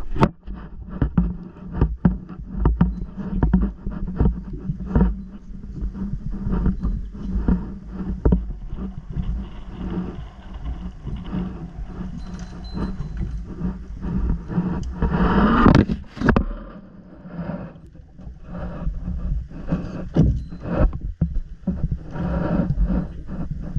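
A dive boat's engine hums steadily under repeated clanks and knocks of scuba gear. Two louder rushing whooshes come through, one a little past halfway and one at the end.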